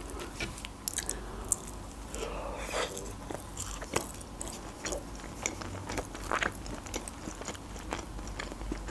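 Close-miked chewing of a piece of quiche with a shortcrust pastry base: irregular small crunches and mouth clicks.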